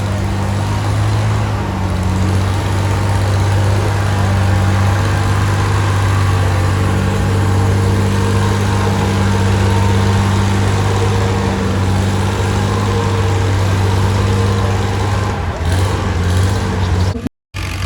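Antique tractor engine running hard at a nearly steady pitch, with a wide rumble and hiss of noise around it. The pitch dips briefly about a second and a half in and eases a little near the end, just before the sound drops out abruptly for a moment.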